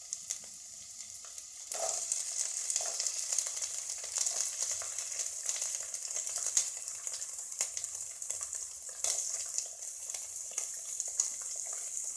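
Chopped onion going into hot refined oil in a pan, breaking into a loud sizzle about two seconds in and frying steadily over a high flame, with short clicks of stirring.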